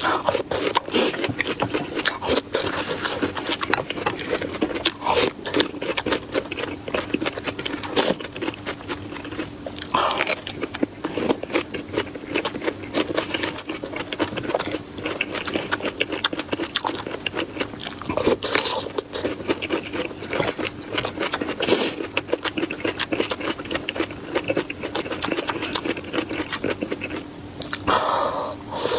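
Close-miked eating: a person chewing food, a dense, continuous run of mouth clicks and smacks.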